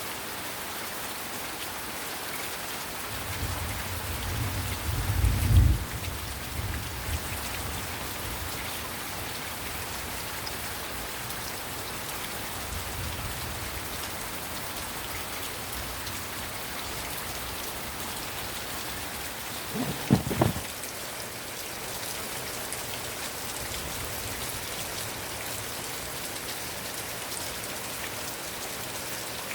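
Heavy rain falling steadily. A low rumble builds and fades a few seconds in, and a short, sharper low thump with two peaks comes about two-thirds of the way through.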